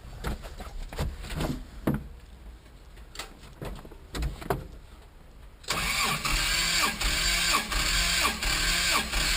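Scattered clicks and knocks, then about five and a half seconds in a starter motor suddenly begins cranking the freshly rebuilt Toyota engine. It turns over steadily with a slow beat about twice a second and does not fire.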